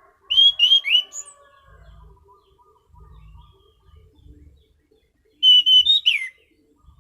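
Anis cendana thrush singing in two short, loud bursts of quick, sharp notes that slur downward, one at the start and one near the end.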